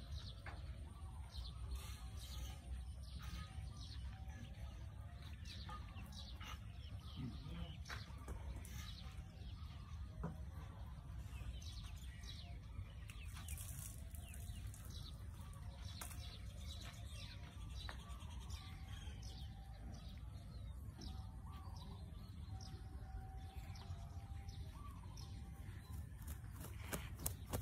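Faint bird chirps and short clicks scattered over a steady low rumble.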